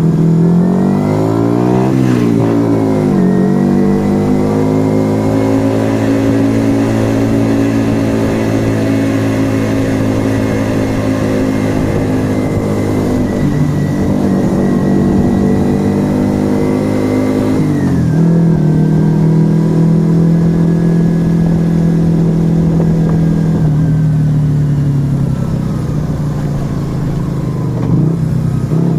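Yamaha XV125 Virago's small air-cooled V-twin running through a Turbo Kit aftermarket exhaust on the move. The revs dip and climb again about two seconds in, hold steady for a long stretch, drop suddenly a little past halfway, then sag slowly and pick up again near the end.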